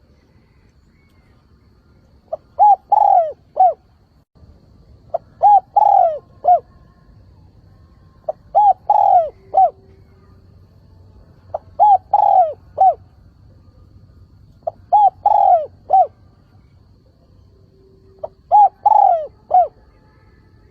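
Spotted dove giving its calling coo: a phrase of short notes around a long falling coo, repeated six times about every three seconds. It is the male's calling song, used to draw wild doves in.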